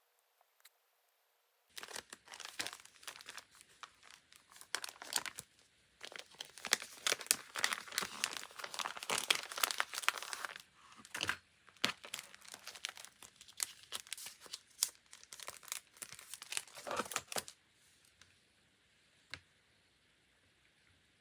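Crinkling and rustling of paper and decorating materials being handled, starting about two seconds in and stopping a few seconds before the end, followed by a few light clicks.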